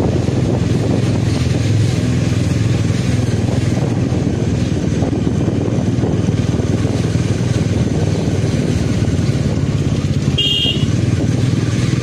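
Motorcycle engine running steadily while riding, with wind and road rumble. About ten seconds in, a brief high-pitched beep.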